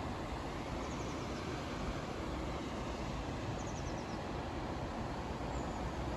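Steady low outdoor background noise, with a small bird giving short runs of quick high chirps twice, about a second in and again near four seconds.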